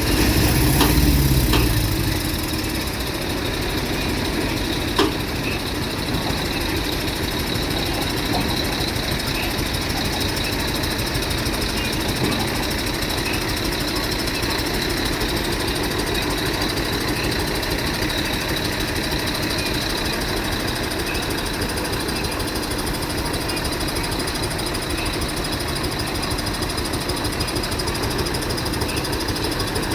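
Heavy machinery engine running steadily with a constant whine, swelling louder briefly at the start, with a single sharp knock about five seconds in.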